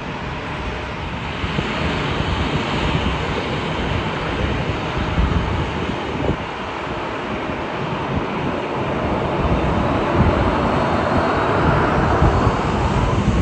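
Jet airliner's engines passing, the noise building toward the end with a whining tone that bends in pitch, over wind buffeting the microphone.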